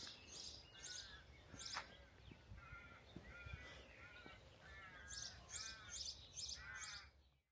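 Birds calling: a run of short, repeated calls, with thinner high chirps over them, fading out near the end.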